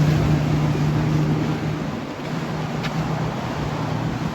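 Motorboat engines running with a steady low drone over the noise of water and wind, easing off a little about halfway through.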